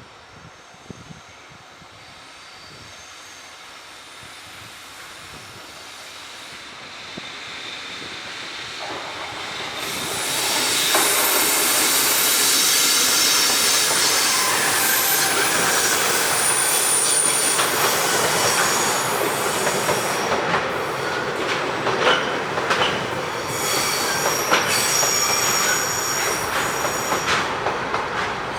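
A train approaching and passing close by. It grows louder over the first ten seconds or so and then stays loud, with high-pitched wheel squeal and clicking from the wheels over the rails.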